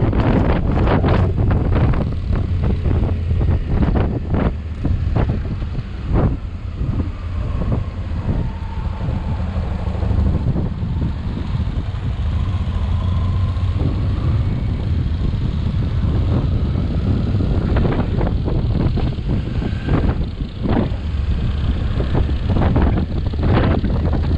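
Motorcycle ride: the engine's low running drone with heavy wind buffeting on the microphone, the gusts thickest at the start and again in the last few seconds.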